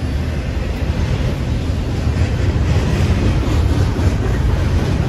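Train rumbling steadily past at close range, a continuous low rumble with a noisy hiss above it, mixed with wind noise on the microphone.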